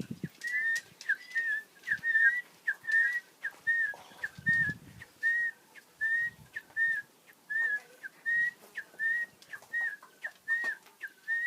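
A man whistling a quick run of short chirps, about two a second, each note rising and falling in pitch, in imitation of the call of an animal that Hadzabe hunters hunt.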